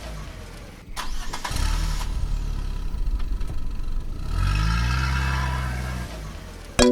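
Go-kart engine accelerating, its pitch rising and then holding, broken off about a second in, then running rougher before rising again about four seconds in and fading. Plucked-string music starts at the very end.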